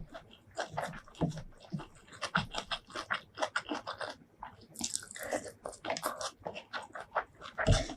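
Close-miked eating sounds: wet chewing and biting with many quick crunches and mouth clicks, a few a second, and a louder bite near the end.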